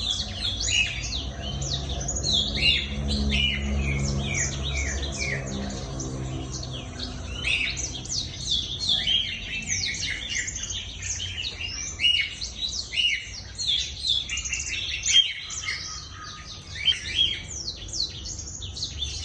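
Black-throated canary singing a long, rapid, twittering song of quick sweeping notes, with almost no pauses. A low droning hum runs underneath for the first several seconds.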